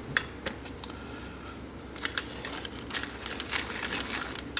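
Atlas hand-cranked pepper mill grinding black peppercorns in its hardened steel mechanism: a few separate clicks, then from about two seconds in a fast, dense crackle as the crank is turned and the peppercorns are crushed.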